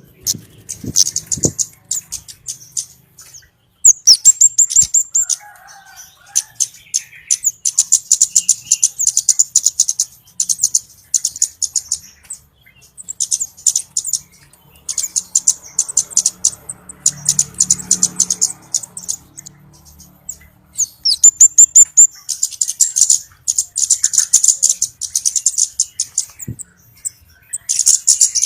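Flowerpecker lure call: rapid strings of very high, sharp ticking chips in bursts of one to three seconds, separated by short pauses.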